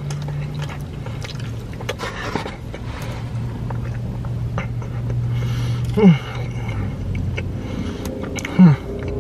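Close-up chewing and wet mouth-smacking clicks of a person eating a mouthful of deep-dish pizza, with two short falling "mm" hums of enjoyment, one about six seconds in and one near the end, which are the loudest sounds. A steady low hum from the car's running engine or fan lies underneath.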